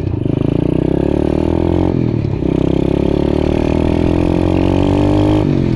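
125cc pit bike's single-cylinder engine accelerating through the gears. Its pitch climbs steadily, drops as it shifts about two seconds in, climbs again, and drops with another shift near the end. The engine is running on choke with the carburettor not yet tuned.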